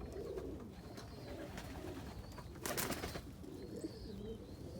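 Domestic pigeons cooing in repeated low coos, with a brief loud rustling burst a little past halfway.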